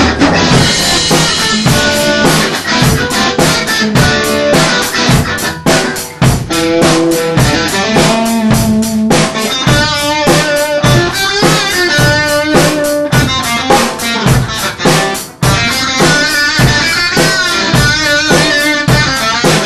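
Alternative rock band playing an instrumental passage: drum kit keeping a steady beat under electric guitar.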